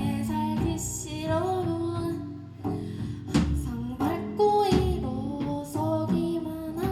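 A singer's voice carrying a sung line without clear words, with notes that bend and are held, over guitar accompaniment.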